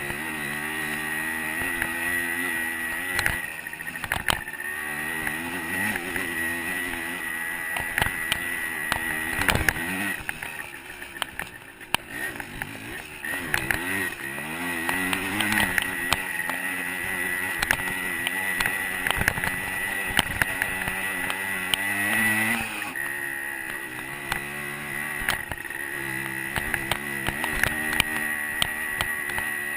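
125 cc two-stroke dirt bike engine revving up and easing off over and over as it rides a trail, with frequent sharp knocks from bumps. The engine drops back about ten seconds in and picks up again around fourteen seconds.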